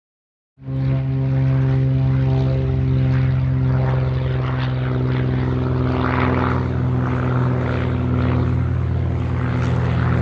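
Propeller-driven sport airplane's engine running steadily, a constant engine tone with propeller noise, starting suddenly about half a second in.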